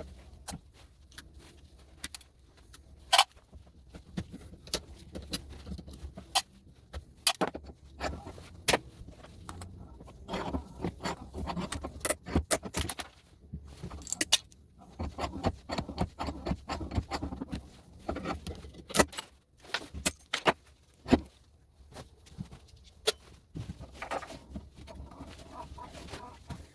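Rapid, irregular clicks, snips and metallic clinks as side cutters pull the brass pins out of plastic electrical plugs, with loose metal and plastic pieces clattering.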